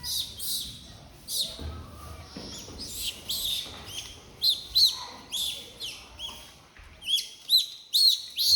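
High-pitched chirping calls, short and arched in pitch, repeated several times a second and coming thicker and louder in the second half.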